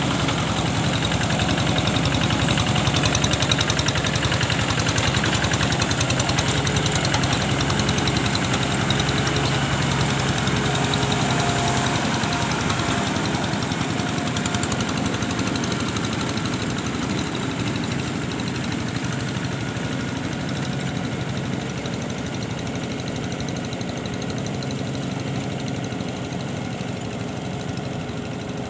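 An engine running steadily with a fast, even chug, growing slowly quieter over the second half.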